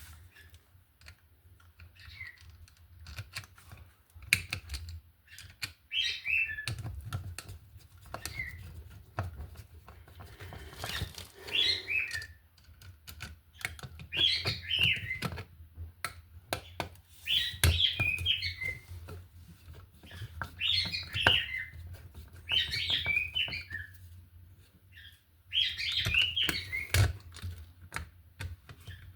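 A bird chirping in short, quick bursts every few seconds, over scattered clicks and knocks of hands handling an electrical outlet and its wires.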